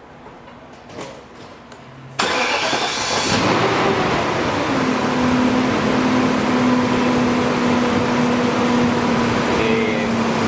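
A few faint clicks, then the 1998 BMW 540i's 4.4-litre V8 cranks and starts about two seconds in, its revs flaring up and dropping back. It settles into a steady, even idle with the cylinder 7 injector fed battery voltage through a jumper lead, no longer misfiring.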